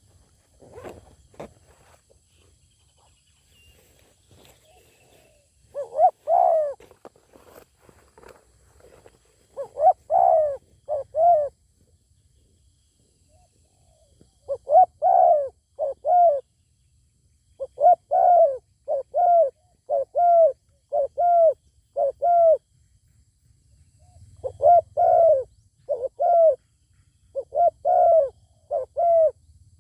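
Spotted doves cooing in short phrases of two or three low, curved notes, repeated with pauses from about six seconds in. A few faint knocks come before the first phrase.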